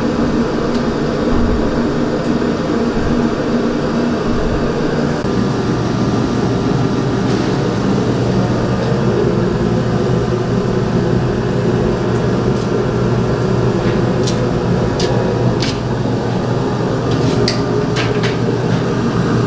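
Steady, loud mechanical drone, with a few short sharp clicks or clanks in the second half.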